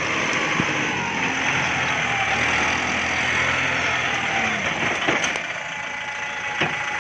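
Kubota MU5702 tractor's diesel engine running steadily under load while pulling through heavy field work in low gear, with a couple of short knocks near the end.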